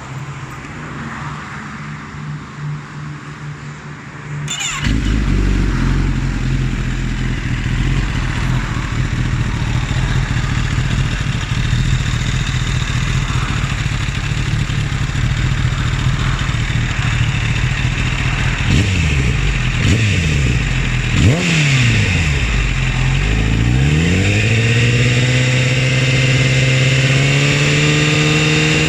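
Kawasaki ZX-10R inline-four engine idling, getting louder about four seconds in. Later it is blipped a few times, the revs rising and falling quickly, and near the end it is brought up to a higher held speed. The owner is unsure whether this noise is normal.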